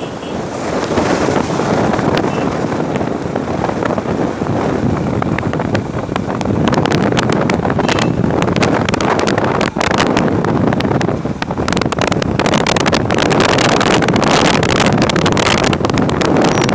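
Wind rushing over the microphone of a moving bike ridden in the rain: a steady, loud rumble and hiss broken by many sharp crackles, which grow denser after about six seconds.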